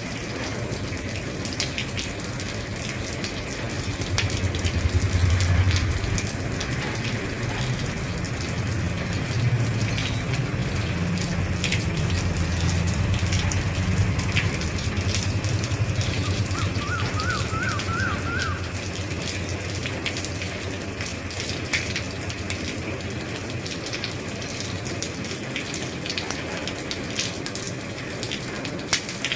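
Rain on an old roof: a steady hiss with many separate drop taps. A low rumble swells about four seconds in and fades away after about twenty seconds.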